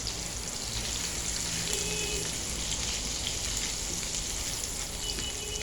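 Chicken fillet frying in a pan: a steady sizzle with scattered small crackles.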